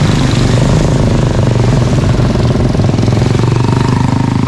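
Motorcycle engine running loud and steady at an even low pitch.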